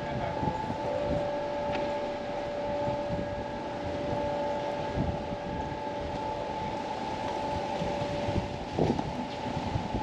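A steady mechanical hum holding a couple of constant tones over wind noise on the microphone; one of the tones drops out near the end.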